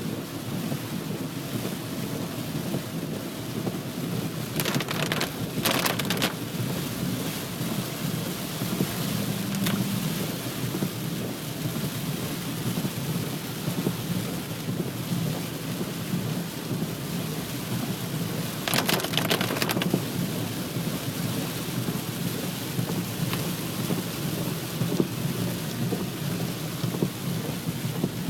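Heavy rain pouring down steadily, with two brief crackling bursts about five and nineteen seconds in.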